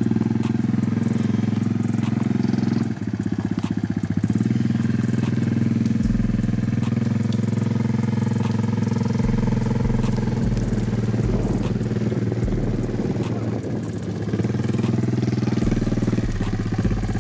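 Four-wheeler (ATV) engine running steadily, with a brief dip in engine speed about three seconds in.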